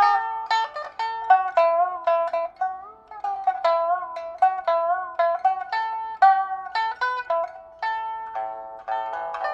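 Solo pipa played in plucked single notes, several of them bent in pitch after the pluck, with quicker repeated notes near the end.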